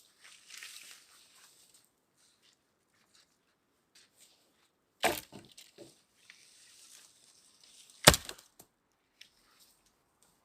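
Wood cracking sharply twice, about three seconds apart, the second crack the louder, with faint rustling and scraping between.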